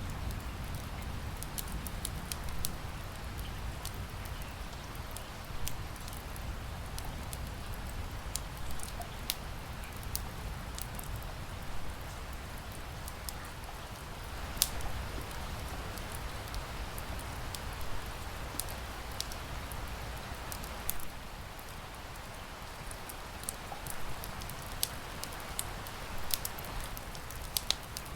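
Wood fire crackling, with sharp pops scattered irregularly, over a steady hiss of rain and a low rumble.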